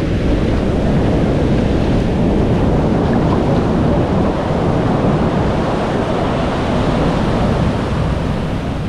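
Ocean surf washing onto a sandy beach in a steady rush of waves, with wind buffeting the microphone.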